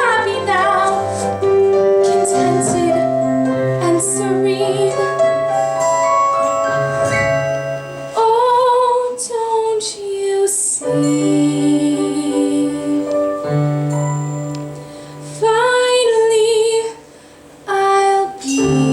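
A woman singing a slow, tender show-tune ballad over soft instrumental accompaniment, her long held notes wavering with vibrato.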